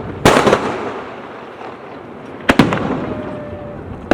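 Aerial firework shells bursting. There is a loud bang about a quarter of a second in, then a second burst of several quick bangs about two and a half seconds in, each echoing and fading away.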